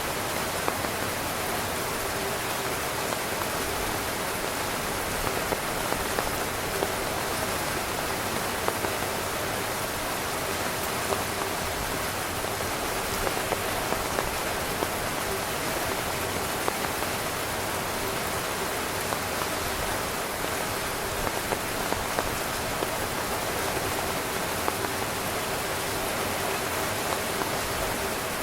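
Steady rain falling on a tent, a dense even hiss with frequent louder single drops striking the fabric.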